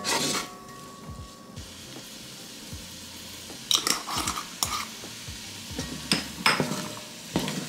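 Onion and celery sautéing in butter in a nonstick pan, a low steady sizzle, with a wooden spoon stirring, scraping and knocking against the pan at the start, around four seconds in and again near the end.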